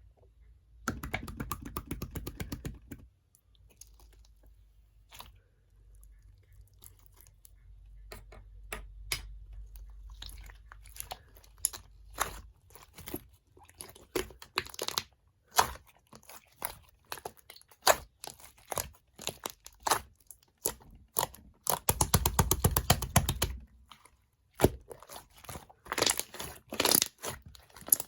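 Close-up crunchy, squishy handling sounds, with irregular sharp clicks and crackles throughout and two denser stretches of crackling, one near the start and one about two-thirds through.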